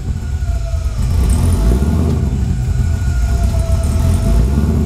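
LSA-supercharged LS V8 in a third-gen Camaro idling, freshly started, heard from behind at the exhaust: a steady low rumble with a faint high whine over it.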